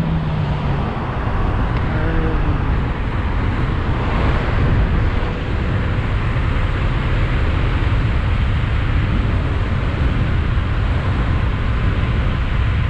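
Steady wind and road noise from riding a 72-volt, 5000-watt DIY electric bike: a deep, constant rumble with a hiss above it.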